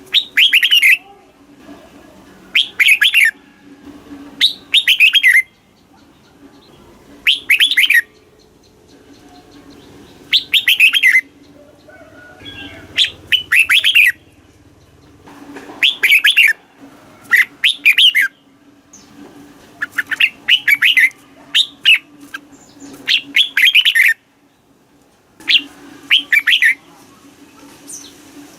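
Red-whiskered bulbul singing: short, bright warbled phrases of quick rising and falling notes, repeated every one to three seconds. It is the chattering song that keepers play to excite caged bulbuls and teach young birds to sing.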